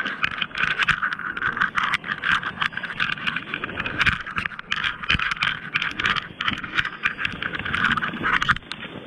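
Thin lake ice crackling and breaking up: a dense, rapid run of sharp crackles and clicks that cuts off abruptly about a second before the end.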